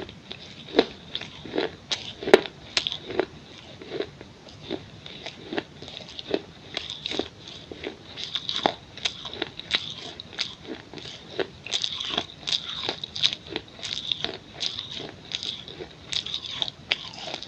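Pieces of a baked clay pot or bowl being bitten and chewed close to the microphone: an irregular run of sharp, dry crunches, about two or three a second.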